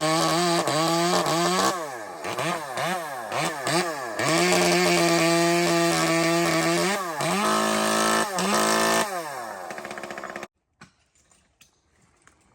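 Two-stroke chainsaw revved in quick bursts, then held at steady high revs for a few seconds before falling back; the sound cuts off abruptly about ten seconds in.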